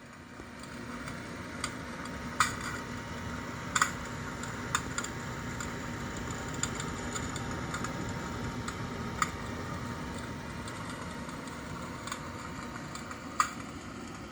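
Simulated fire-crackling sound effect from a Shinic portable electric fireplace heater: a few sharp, irregular pops and crackles spaced a second or more apart, over a steady hiss.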